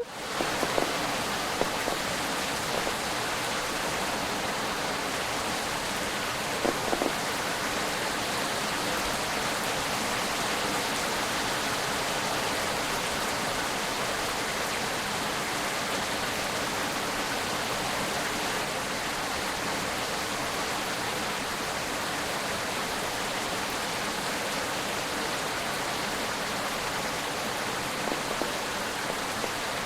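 Windstorm: a steady, even rushing noise, with a few short knocks in the first several seconds and again near the end.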